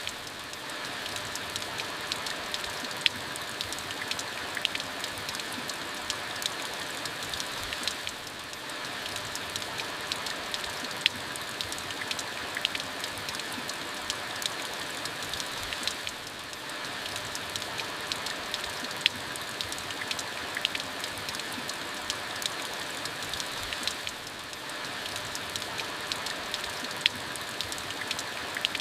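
Steady rain falling, with sharp ticks of individual drops striking close by. The rain briefly eases and swells back about every eight seconds.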